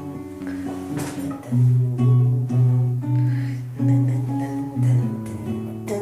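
Guitar music: plucked acoustic guitar with held low bass notes that come in strongly about one and a half seconds in and change every second or so.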